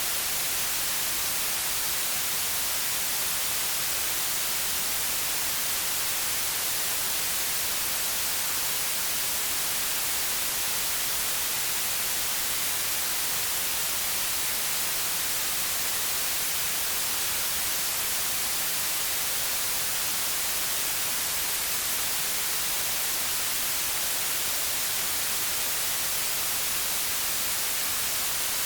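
Steady, unchanging white noise: an even hiss, brightest in the high frequencies.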